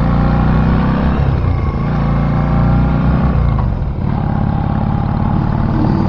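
Vehicle engine running under load on a climb it could not take in third gear, its pitch shifting; the sound dips briefly about four seconds in, then the engine pulls on.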